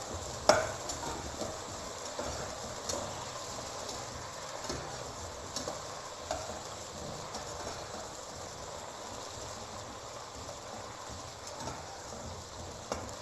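Chicken pieces and potatoes sizzling steadily as they fry in oil, with a few clicks of a utensil against the pan, the sharpest about half a second in.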